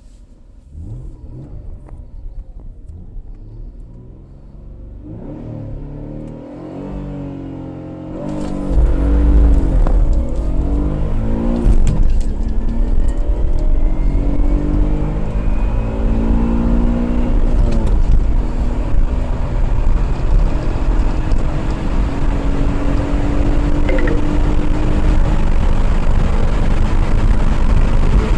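Mitsubishi 3000GT's V6 engine accelerating hard through the gears, its pitch climbing in each gear and dropping back at each change. The engine grows steadily louder, and about eight seconds in a loud low rumble joins it and stays to the end.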